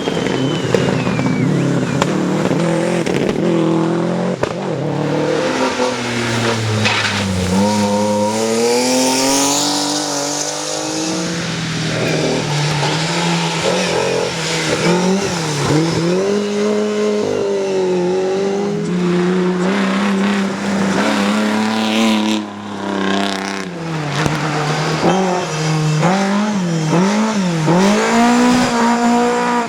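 Rally car engine revving hard, its pitch climbing and falling again and again through gear changes, lifts and braking.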